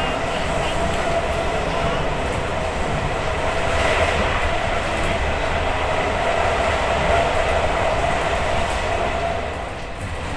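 Passenger train running at speed, heard from inside the carriage: a steady rumbling, rushing running noise with a steady tone held over it.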